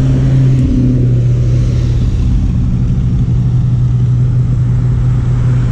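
A car engine running steadily as the car cruises at low speed, a constant low drone.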